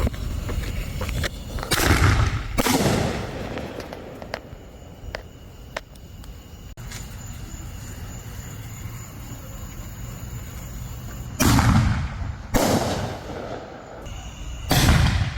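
Dominator festival ball shells firing: loud sudden bangs, two about two seconds in, two more around eleven to thirteen seconds in and another near the end, with a few faint pops between the first pair and the rest.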